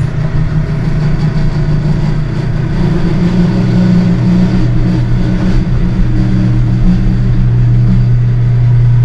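Home elevator motor running as the car descends: a steady, loud low hum.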